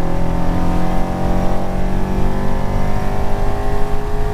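Car engine pulling hard under acceleration, its pitch rising slowly and steadily, with a raspy exhaust note that sounds like a really clapped out Mustang.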